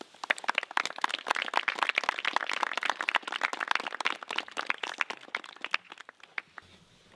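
A few people clapping, a dense patter of claps that thins out and stops about six seconds in.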